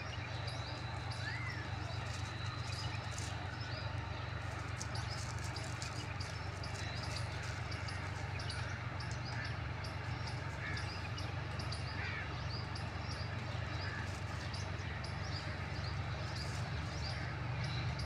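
Small birds chirping and tweeting in short scattered calls over a steady low hum.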